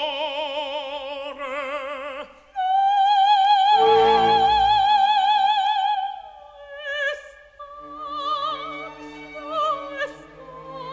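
Operatic singing with wide vibrato over a soft orchestra. A long bright held note runs from about two and a half to six seconds in, followed by shorter sung phrases.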